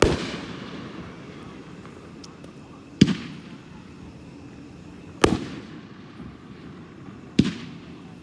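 A 9-shot consumer fireworks cake (Roping) firing shot by shot: four sharp bangs about two to three seconds apart, each dying away over about a second.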